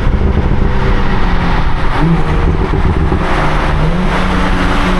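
BMW 340i's turbocharged straight-six with a catless downpipe and valved exhaust, heard while driving: a loud, steady exhaust drone whose pitch climbs briefly about two seconds in, again about four seconds in, and near the end as the car accelerates.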